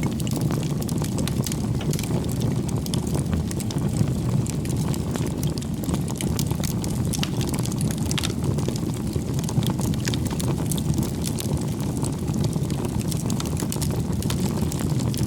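Wood bonfire burning: a steady low roar of flames with frequent sharp crackles and pops from the burning firewood.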